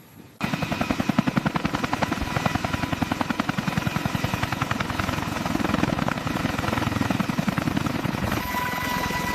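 Large heavy-lift helicopter with its rotor turning, a fast steady chop that starts abruptly about half a second in. Near the end a steady high whine from the turbine engines joins the rotor beat.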